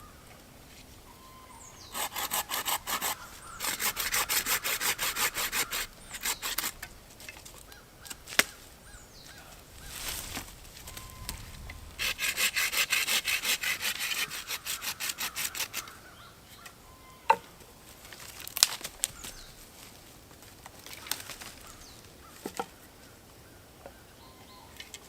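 Hand saw cutting dry dead wood for firewood: several spells of quick back-and-forth strokes with pauses between them, then a few single sharp knocks.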